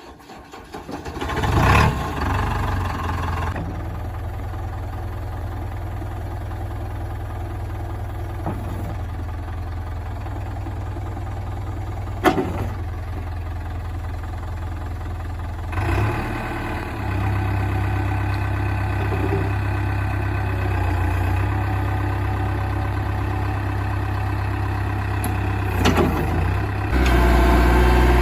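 Heavy diesel engine running steadily, picking up within the first two seconds and getting louder twice, about halfway through and again near the end, with a few short knocks over it.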